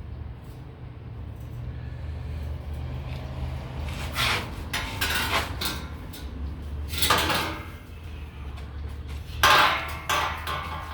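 Metal pieces knocking and clanking against metal, about five sharp knocks with short ringing, spread over the last half, over a steady low hum.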